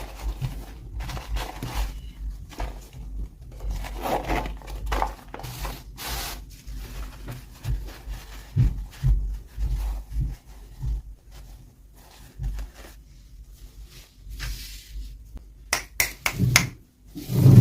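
Hands handling toy packaging and small plastic doll pieces: irregular rustling, scraping and light clicks and taps, with a few soft thumps.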